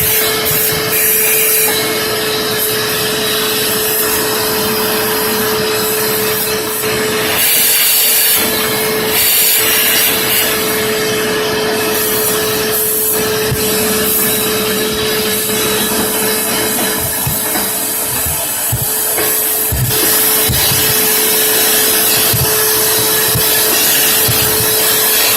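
Vacuum cleaner motor running steadily with a constant whine over its airflow noise, and a few low knocks in the second half.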